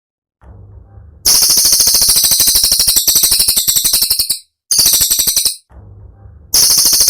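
Cililin song: long runs of sharp, very high notes fired in fast succession, about a dozen a second, broken by short pauses. A faint low hum fills two of the pauses.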